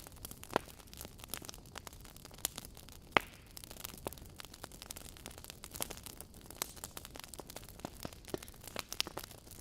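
Wood fire burning in a fireplace, crackling with irregular sharp pops over a low steady hiss; the loudest pop comes about three seconds in.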